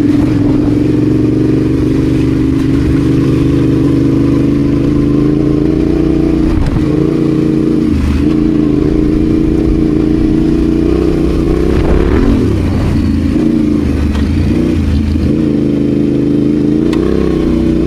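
Adventure motorcycle engine running under load off road, the throttle eased off and opened again several times, with short dips near the middle and toward the end.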